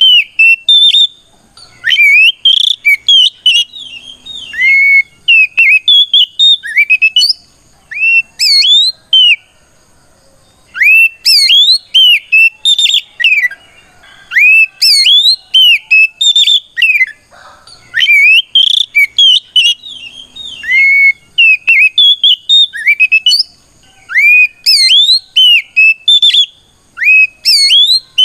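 Oriental magpie-robin (kacer) singing loud, fast runs of sweeping whistled notes that glide up and down, in bursts broken by brief pauses. It is the full-throated challenge song a male gives when calling out a rival.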